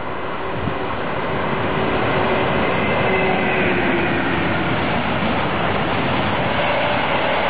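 Freight train hauled by an electric locomotive passing close by: the rolling noise grows over the first two seconds as the locomotive goes past, then holds steady as a long string of covered goods wagons rolls by.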